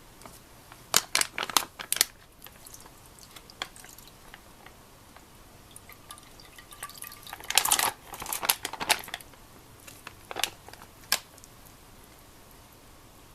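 Scattered clicks and light knocks of things being handled, with a denser, noisier stretch of clatter or rustling about eight seconds in.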